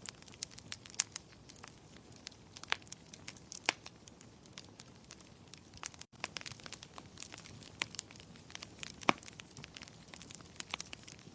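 Wood fire crackling in a fireplace: frequent irregular sharp pops and snaps over a soft rush of flame, a few pops much louder than the rest. The sound cuts out for an instant about six seconds in.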